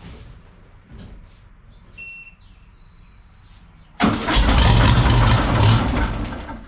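Volkswagen Beetle air-cooled flat-four engine, freshly reinstalled, cranked over on the starter for about two seconds from about four seconds in, then let go. It has not yet caught: the fuel pump has still to bring fuel up to its dual single-barrel Kadron carburettors.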